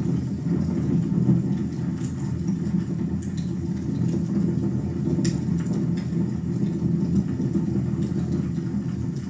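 Wood fire burning in a fireplace: a steady low rumble with a few sharp crackles and pops scattered through.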